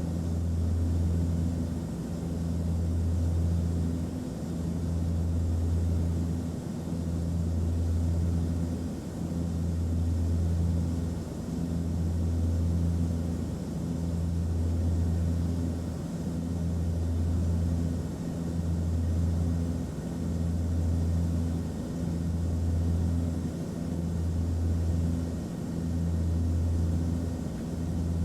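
Airplane cabin noise: a steady low engine drone with a faint hiss over it, swelling and fading evenly about every two seconds.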